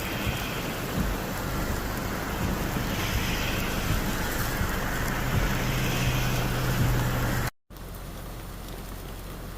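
Heavy rain pouring steadily, with a low steady hum joining from about five seconds in. About two thirds of the way through, the sound cuts off abruptly and gives way to quieter, steady rain.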